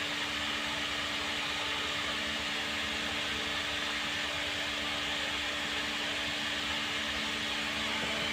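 Steady machine hum with a constant low drone and an even whirring hiss, unchanging throughout.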